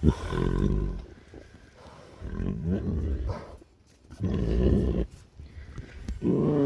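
Young tigers growling in about four rough, low bursts while they tussle with each other.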